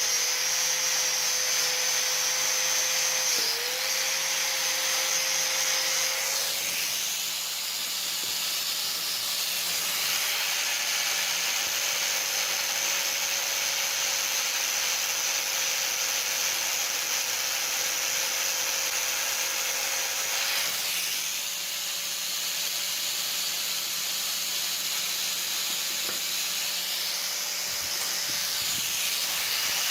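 A power tool running steadily with a strong hiss. Its motor note dips briefly about three seconds in and wavers again around twenty seconds.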